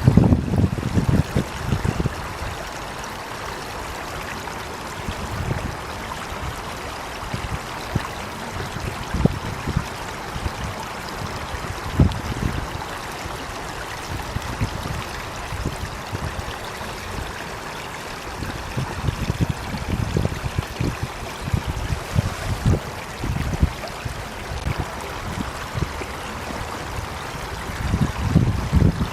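Water flowing steadily, with a constant rushing hiss and irregular low rumbles that are heavier near the start and near the end.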